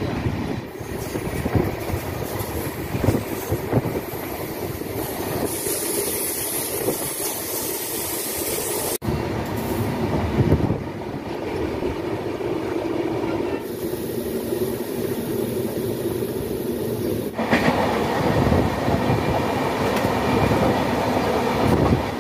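Passenger express train running at speed, heard from beside an open coach door: a steady rumble and clickety-clack of wheels on the rails, with wind. The sound breaks off suddenly for an instant about nine seconds in.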